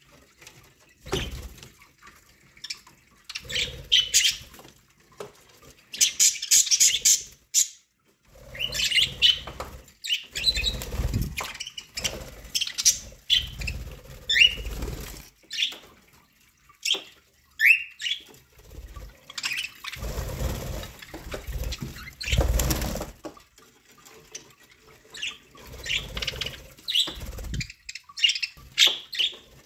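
Pet budgerigars chirping in short high calls, with a couple of quick rising calls, mixed with repeated bursts of wing fluttering.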